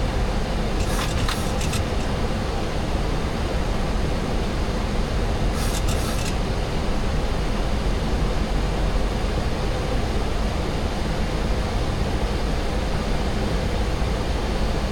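Steady flight-deck noise of a Boeing 737-800 on approach: a constant rush of air and engine noise, with two short high-pitched crackles about one second and six seconds in.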